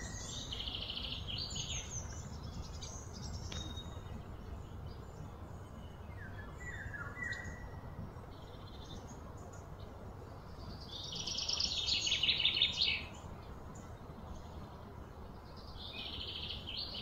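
Birds calling outdoors: short falling chirps and high, rapidly pulsed calls, with the loudest run of pulses coming about 11 seconds in and stopping abruptly near 13 seconds, over a low steady background rumble.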